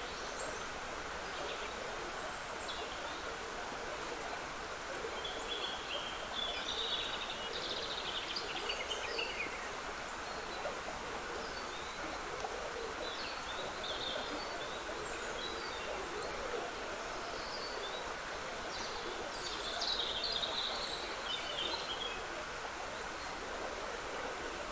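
Steady trickling woodland stream with songbirds singing short high phrases over it, the song busiest around a quarter of the way in and again near the end.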